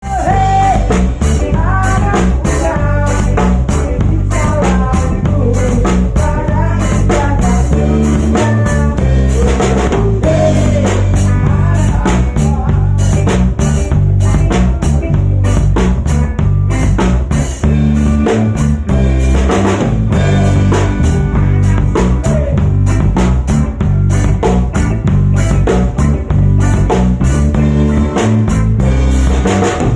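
A rock band playing instrumentally: drum kit with a steady cymbal beat, bass, and electric guitar playing a lead melody over the rhythm.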